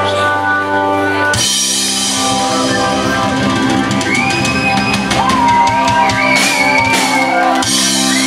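Live rock band playing an instrumental stretch with no singing: drum kit with cymbals and guitar. A held chord gives way about a second and a half in to busier drumming under a bending melodic line.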